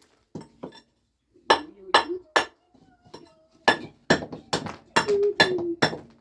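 Irregular series of sharp clinking taps of a hard tool striking a hard surface: a couple near the start, then groups of strikes at uneven intervals, coming faster toward the end.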